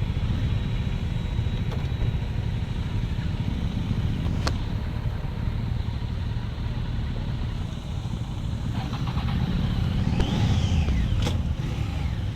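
Motor vehicle on the move: a steady low engine and road rumble throughout. A sharp click comes about four and a half seconds in, a brief high tone rises and falls about ten seconds in, and another click comes near the end.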